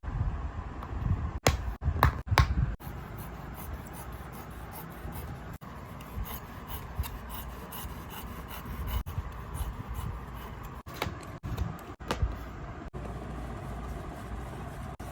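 Hand work on a shoe: rubbing and scraping sounds, with a few sharp knocks about one and a half to two and a half seconds in and again near the end.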